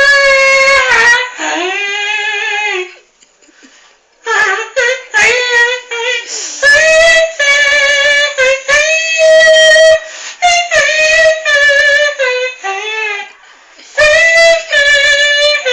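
A person imitating a saxophone with the mouth, playing a slow melody in held notes strung into phrases, with a pause of about a second between phrases early on and a shorter one near the end.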